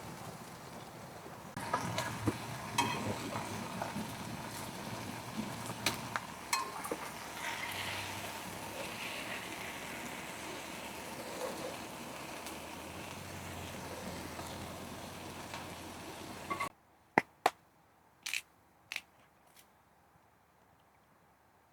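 Food sizzling in a pan, with scattered clicks and knocks of cooking utensils. About seventeen seconds in the sizzle cuts off suddenly, leaving near quiet and a few sharp clicks.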